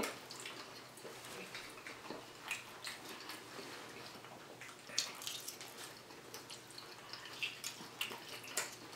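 Faint wet chewing sounds of people eating, with scattered small clicks.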